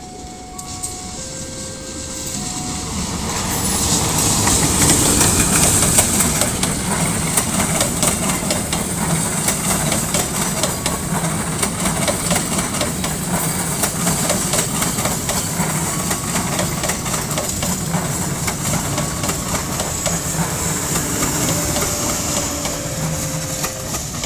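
A diesel-hauled passenger train passing close. The sound swells as the locomotive goes by about four to six seconds in, then settles into the steady rumble and clickety-clack of the coach wheels on the rails, with a high hiss over it.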